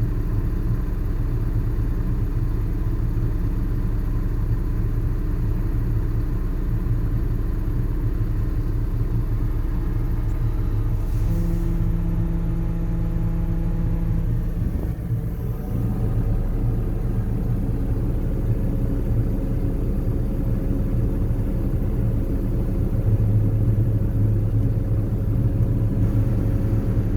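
John Deere tractor's diesel engine running steadily while it works an almond sweeping and pickup machine, a continuous low drone. About 11 seconds in, extra steady tones join for a few seconds. It grows somewhat louder near the end.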